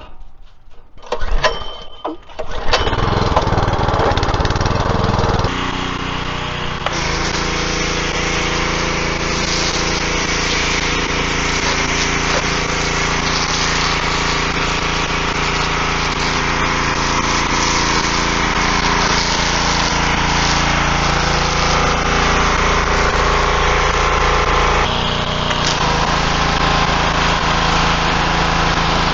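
Pressure washer's small engine starting about two seconds in and then running steadily, with the hiss of the high-pressure spray, which changes a couple of times as the spray is worked.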